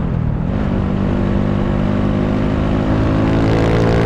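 Honda Wave 125's single-cylinder four-stroke engine pulling the moving motorcycle. Its revs dip briefly at the start, then rise steadily as it accelerates, with wind noise on the microphone.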